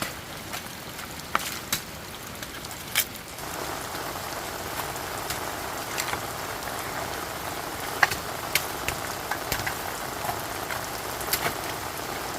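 Heavy rain falling steadily, growing louder about three and a half seconds in, with scattered sharp taps.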